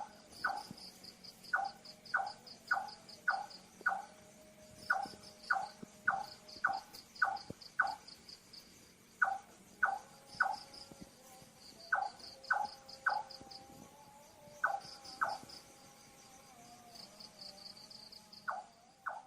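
A night bird giving a short knocking call over and over, about two a second, in runs of two to six with brief pauses between runs. Crickets chirp steadily in quick pulses underneath.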